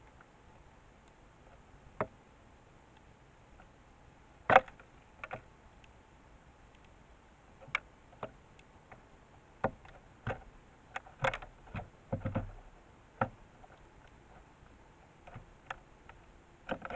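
Irregular sharp taps and knocks of a female house sparrow pecking at seed on a feeder, close to the feeder camera's microphone. The loudest tap comes about four and a half seconds in, with a quick run of taps a little past the middle.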